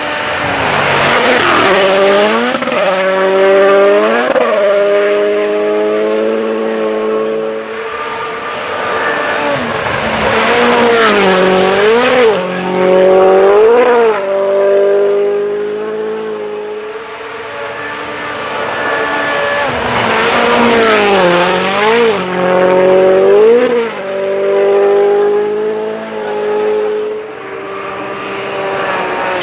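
Rally cars at full throttle on a gravel special stage: the engine note climbs and drops sharply about once a second with quick gear changes, in three loud runs, with gravel and tyre hiss over it.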